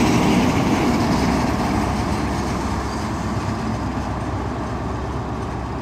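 High Speed Train with class 43 diesel power cars running into the platform. The rear power car's MTU engine and the train's rumble are loudest at first, then fade slowly as the train slows to a stand.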